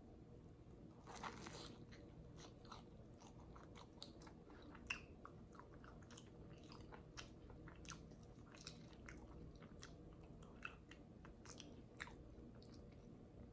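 Faint close-up chewing of a samosa: scattered soft crunches of its fried pastry and small mouth clicks, with one sharper click about five seconds in.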